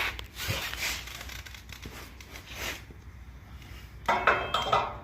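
Parts of a brake conversion kit being handled during assembly: a few short rustling, rubbing scrapes.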